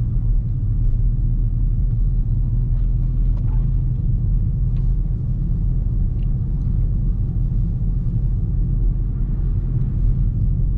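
Steady low rumble of a Dodge Charger Scat Pack's V8 and its road noise, heard inside the cabin while cruising, with a few faint ticks.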